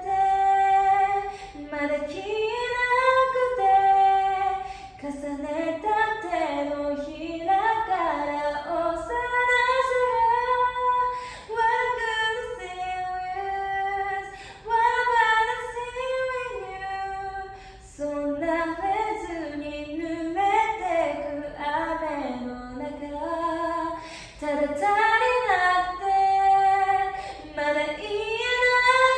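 A female voice singing a slow ballad melody a cappella in Japanese, in phrases of held notes and pitch glides with short breath pauses between them.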